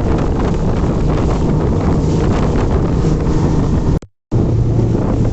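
Engine running steadily under heavy wind noise on the microphone, with a short drop to silence about four seconds in, after which the engine hum comes back stronger.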